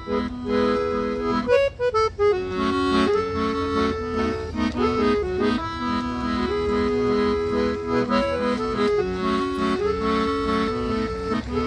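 Forró instrumental break: an accordion plays the melody over a steady low beat, with a quick run of notes about a second and a half in.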